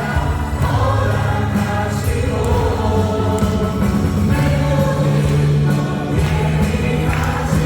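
Worship band playing with a group of vocalists singing together: keyboards, drums and acoustic guitar under several voices.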